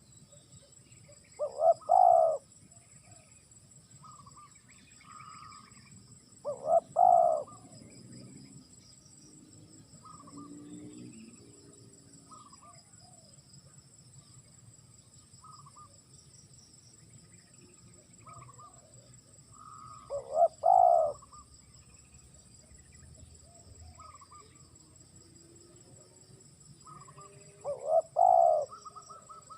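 Spotted dove cooing: four short bouts of its call, several seconds apart, with faint chirps of smaller birds and a steady high-pitched insect-like whine behind.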